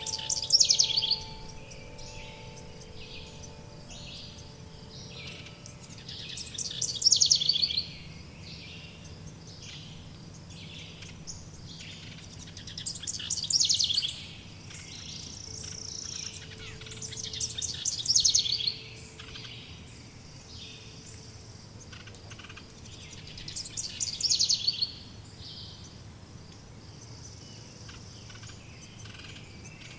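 Forest songbirds singing. One bird repeats a loud, rapid, descending trilled phrase about every five to six seconds, over thin high chirps from other birds. Soft wind-chime tones ring and fade in the first few seconds.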